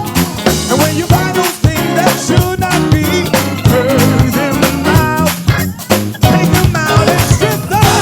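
Upbeat gospel band music with a driving beat: drums, bass, organ and keyboards, with horn and guitar lines over the top.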